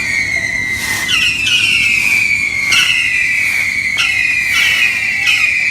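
Whistling fireworks going off one after another, about one or two a second. Each whistle starts suddenly and falls in pitch over about a second, overlapping the next.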